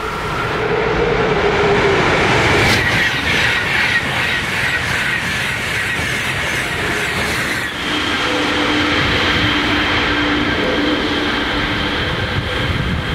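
Italian high-speed electric train running past at speed: a loud rush of air and wheels with a rapid, regular clatter as the wheels cross the rails. About eight seconds in, the sound changes abruptly to a steadier rush with a faint steady hum.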